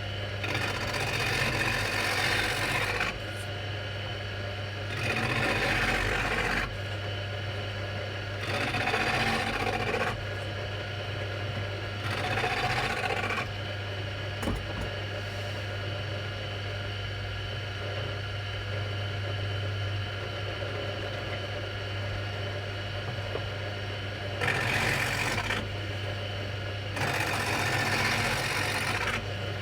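A drill press running steadily, with a wooden mandolin headstock blank fed past its spinning cutter in six passes of a second or three each, every pass a loud rasping bite over the motor hum; the cuts are thicknessing the headstock to a slight taper.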